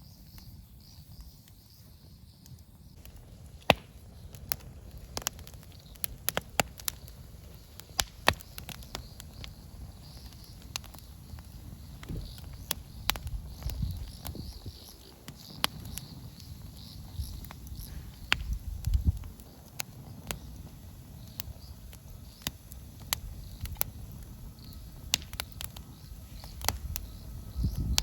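Wood fire crackling with sharp, irregular pops, over a low rumble and a faint, steady high chirring of insects.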